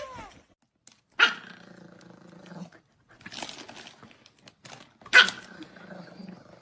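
A dog barking twice about four seconds apart, each sharp bark drawn out for over a second, with a softer vocal sound between them.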